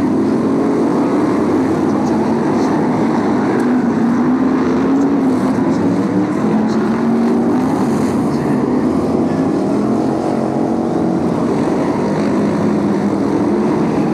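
BriSCA Formula 1 stock cars' V8 engines racing around the oval: a loud, continuous engine drone whose pitch rises and falls as the cars accelerate and lift.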